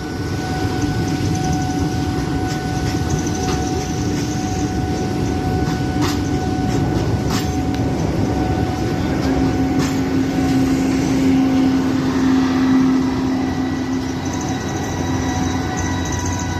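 A train running past with a steady rumble and a hum that swells toward the middle, with a few sharp clicks along the way.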